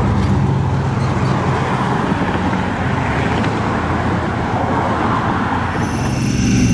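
A large road vehicle driving past: steady engine hum under loud tyre and road noise. A few thin steady high tones come in near the end.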